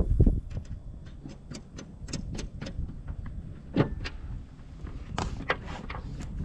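Irregular light metal clicks and taps from bolts being handled and fitted into a finish mower deck, with one sharper knock about four seconds in.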